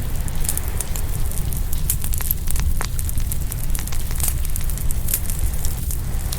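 Open wood fire crackling and popping, many small sharp cracks at irregular moments, over a steady low rumble of waves.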